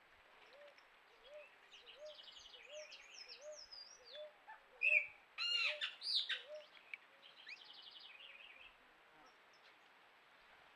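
Several wild birds calling together: a low, arched note repeated about twice a second under higher chattering and trilled calls. The loudest part is a burst of sharp, sweeping calls in the middle.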